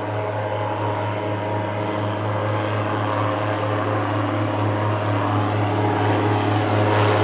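Airboat's engine and big rear propeller fan running with a steady drone, slowly growing louder as it approaches.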